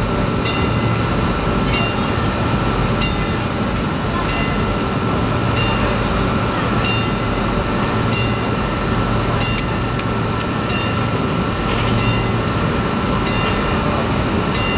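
Steady running noise of a passenger train standing at a platform, with a bell dinging evenly about once every 1.3 seconds.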